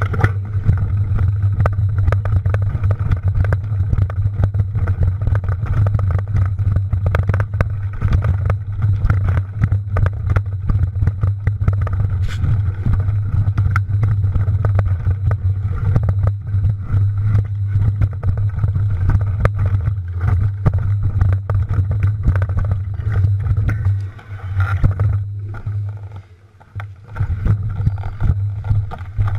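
Wind rumbling on the camera microphone during a mountain-bike ride, with dense clicks and rattles from the bike on rough ground. It drops away briefly near the end.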